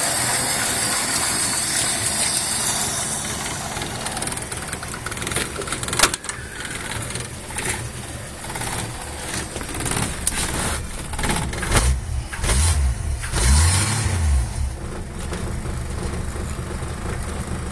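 Ford Falcon Futura's 170 cubic inch straight-six running. There is a sharp click about six seconds in, and the engine revs up and back down a couple of times about two-thirds of the way through.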